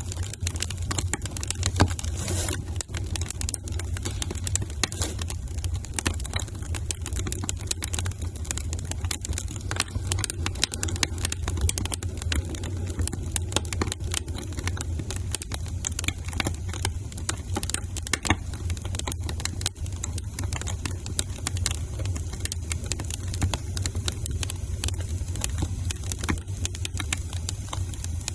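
Wood fire in a fireplace crackling, with many small irregular pops and snaps over a steady low rumble of the burning fire.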